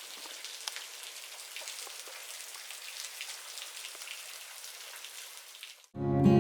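Rain pattering, with many small drops ticking through a steady hiss. It cuts off near the end, when strummed acoustic guitar music starts.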